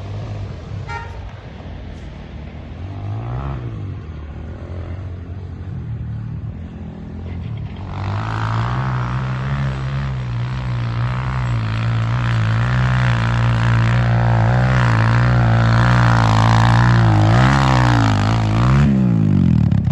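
Dirt bike engine running at a low, steady speed with a short rev about three seconds in. From about eight seconds in it grows much louder and keeps running with small rises and falls in pitch, then a quick rev and drop just before the end.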